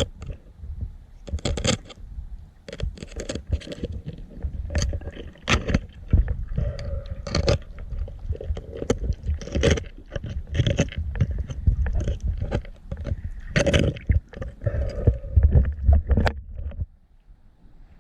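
Underwater handling noise on a GoPro in its waterproof housing: a quick, irregular run of knocks, clicks and scrapes over a low rumble, easing off briefly near the end.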